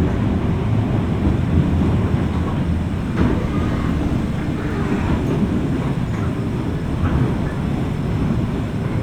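Running noise of a JR West 201 series electric train heard from inside the motor car over its armature chopper: a steady low rumble of wheels and motors with a few faint clicks, as the train nears its terminal stop.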